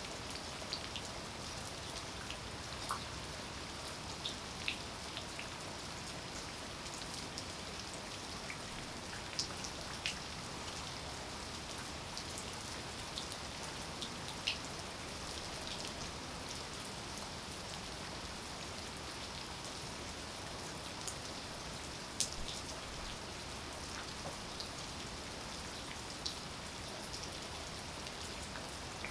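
Steady rainfall, with scattered louder single drops ticking on a surface every second or two; one sharper drop stands out about two-thirds of the way through.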